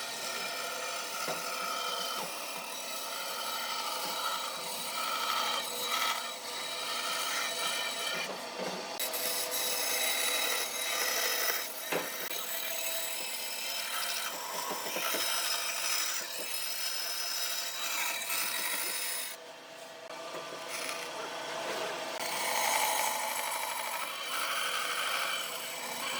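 Wood being worked with a tool: a continuous rasping, scraping sound with a short lull about two-thirds of the way through.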